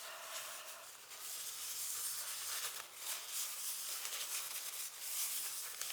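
Tissue rubbing over a glass lens element as it is wiped clean: a soft, uneven rustling hiss that swells and dips with the strokes.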